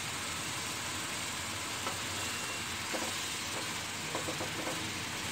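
Chopped ridge gourd sizzling in a pan, a steady hiss, with a few light taps and scrapes of a wooden spatula stirring it in the second half.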